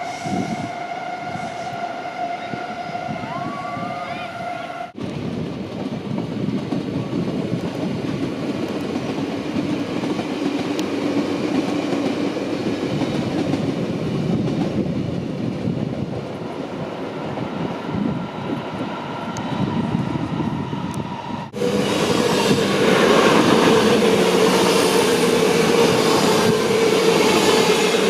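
Electric passenger trains running on the track. The sound changes abruptly twice: first a steady whine, then, about five seconds in, a rumble of wheels on rails, and from about three-quarters of the way through a louder passage with a steady tone over the rail noise.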